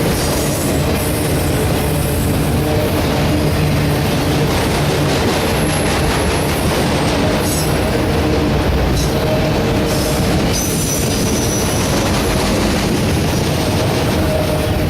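Autorack freight cars rolling past at a steady loud level, with wheel-on-rail rumble and brief high wheel squeals now and then.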